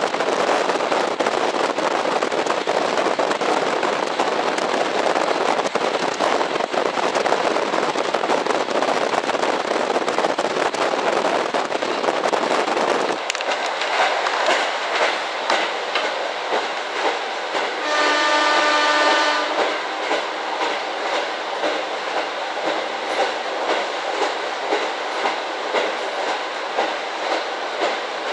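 KiHa 40 diesel railcar running at speed. The first half is a loud, dense rush of running noise; about halfway the sound turns quieter and thinner, a train horn sounds once for about a second and a half, and then the wheels click over rail joints about once a second.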